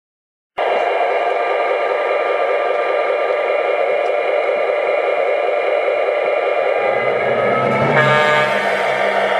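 MTH model of the Union Pacific 844 steam locomotive running, its onboard sound system playing a steady, loud, whistle-like tone that starts suddenly. A deeper rumble joins near the end.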